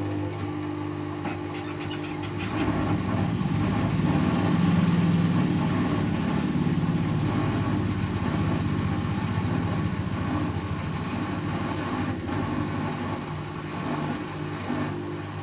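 Servis Automatic M3008B washing machine on its intermediate spin at 500 rpm: a steady motor-and-drum hum, with a few faint ticks in the first couple of seconds, then growing louder and rougher from about three seconds in before easing back.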